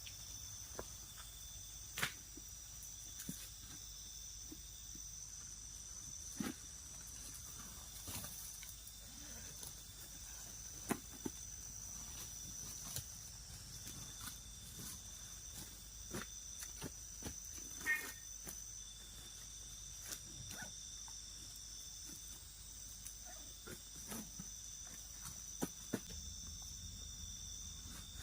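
Night-time insect chorus trilling steadily at two high pitches, with scattered short sharp clicks and taps.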